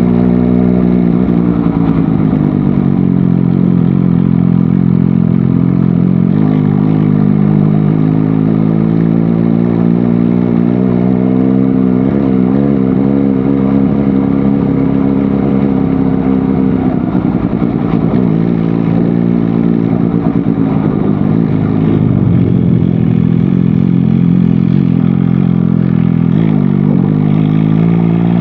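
MV Agusta Dragster 800 RR's three-cylinder engine under way, its note dropping just after the start and then holding fairly steady with small rises and dips in revs. Right at the end the revs climb steeply under acceleration.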